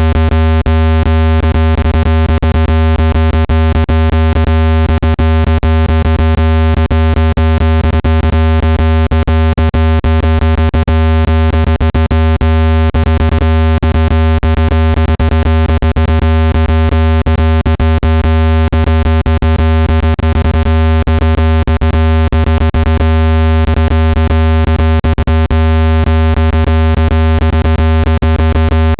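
Loud, steady, low-pitched electronic tone of a speaker water-eject sound wave, the vibration meant to shake trapped water droplets out of a phone speaker's grille. The tone is buzzy with many overtones and is peppered with frequent clicks, and it does not change.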